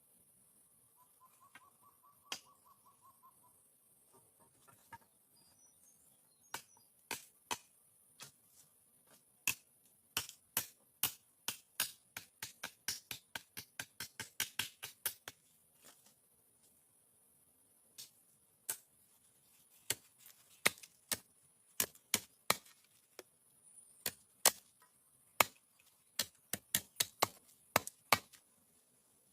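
A series of sharp knocks, some single and some in quick runs of about three a second, over a steady high hiss.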